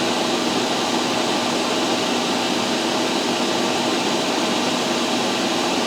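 Soldering fume extractor's fan running with a steady whooshing hum.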